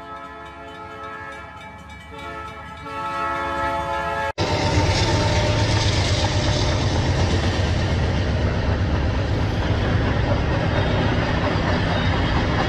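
A multi-tone freight train horn sounds, growing louder, and cuts off abruptly about four seconds in. Then a freight train of covered hopper cars rolls past with a loud, steady noise of wheels on the rails.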